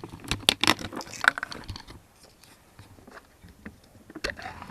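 Close-up eating sounds: a quick run of clicks and knocks of a spoon against a dish in the first two seconds, then a few scattered taps.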